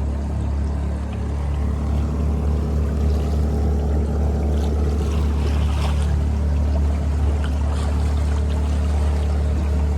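Boat motor running steadily with a low, even hum, with water noise over it.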